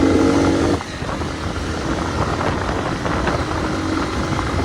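Hartford VR motorcycle engine running on the move, with wind rushing over the microphone. The engine note is steady for under a second, then drops off sharply, leaving mostly wind noise.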